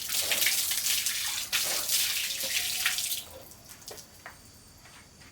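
Running water splashing, which stops suddenly about three seconds in; a few faint knocks follow.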